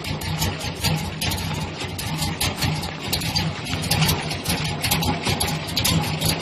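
Square-body GM pickup's engine idling roughly and unevenly, with irregular sharp ticks running through the idle.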